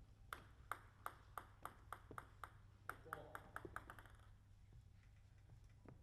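Table tennis ball bouncing: light clicks at about three a second, then a run of ever-quicker bounces as the ball settles.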